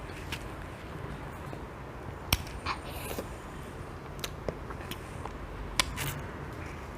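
A few short, sharp clicks and light taps at uneven intervals over a low steady hum, the loudest about two and a half seconds in.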